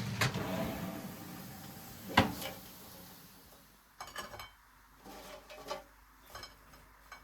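Kitchen handling sounds: a sharp knock about two seconds in, the loudest moment, then a scattering of lighter clicks and taps, such as dishes, utensils and cupboard doors make. A low rushing noise fades away over the first couple of seconds.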